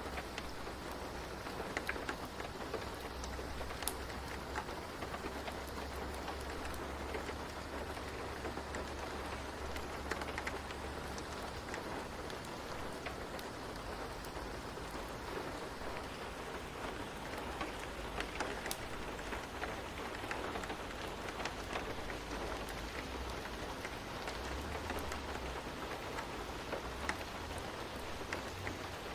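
Steady rain falling, with scattered drips ticking on a surface over a low, even rumble.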